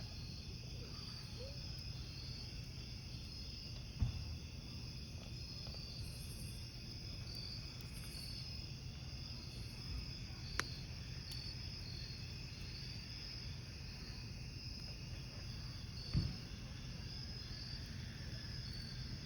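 Crickets chirping in a steady, pulsing chorus over a low wood-fire hiss, with three sharp pops from the burning logs spread through the stretch.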